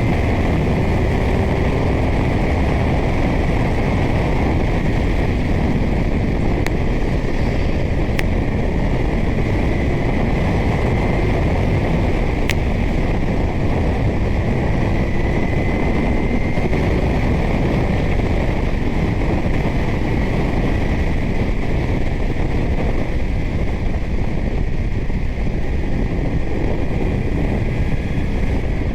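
Kawasaki Z900 inline-four with a titanium Arrow exhaust running at a steady cruise, mostly buried under steady wind rush on a helmet-mounted microphone. A few brief clicks come through in the first half.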